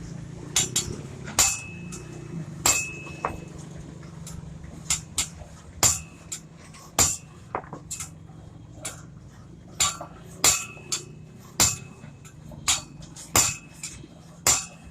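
Hammer striking the metal parts of a tractor clutch plate: sharp, irregularly spaced blows, roughly one or two a second, some leaving a brief metallic ring.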